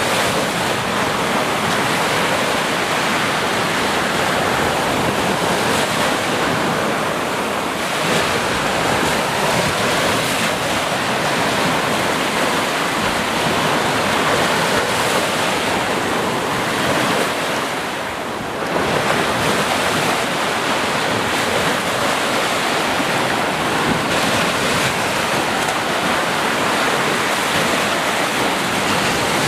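Ocean surf: waves breaking and washing in a continuous, steady rush, with a brief lull about two-thirds of the way through before the next wave swells up.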